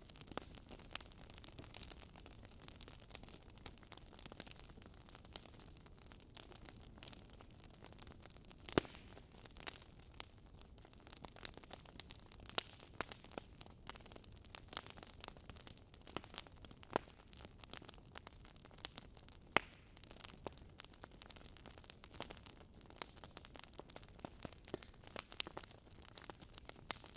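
Wood fire burning in a fireplace, crackling and popping at irregular moments over a soft steady hiss, with a few sharper pops about nine seconds in and near the middle.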